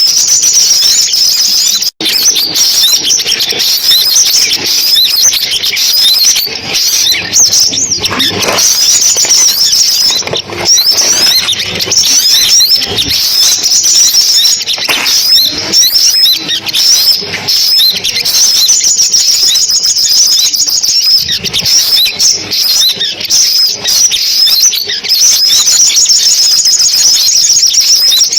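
Sunbirds singing: dense, rapid, high-pitched twittering and trills, unbroken apart from a momentary gap about two seconds in.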